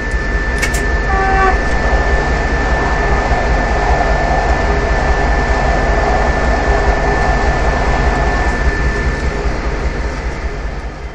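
A moving train heard from the locomotive cab: steady running rumble and rail noise. A short horn blast comes about a second in, and the rush of a passenger train passing on the next track swells through the middle.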